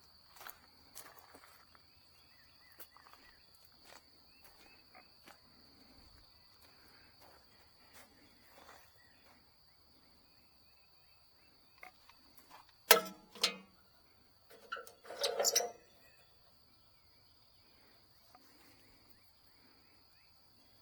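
Steady high insect drone, like crickets, over a quiet background with scattered faint clicks. Two sharp knocks come about two-thirds of the way in, followed a couple of seconds later by a louder, rattling burst of knocks.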